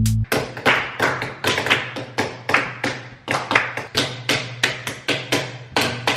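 Rapid, fairly even taps or clicks, about four a second, over a low steady hum.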